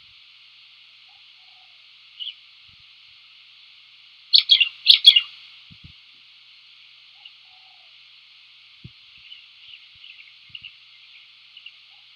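Bird calls: a quick cluster of four or five loud, sharp chirps about four seconds in, with a few fainter chirps before and later, over a faint steady high hiss.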